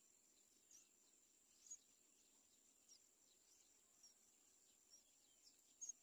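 Faint, steady high-pitched insect drone with short, high bird chirps about once a second; the loudest pair of chirps comes just before the end.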